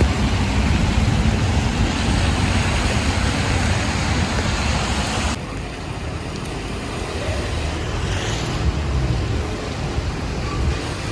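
City street traffic: a steady rumble of passing cars and vehicles, which drops suddenly to a quieter level about halfway through.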